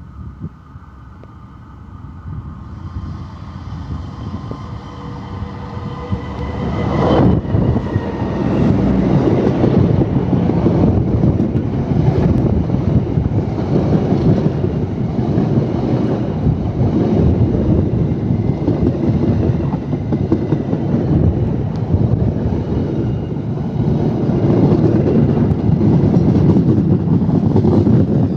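Diesel-hauled KAI Argo Semeru passenger train approaching and passing. Its steady tones drop sharply in pitch about seven seconds in as the locomotive goes by. The passing carriages follow with a loud, continuous rumble and rattle of wheels on the rails.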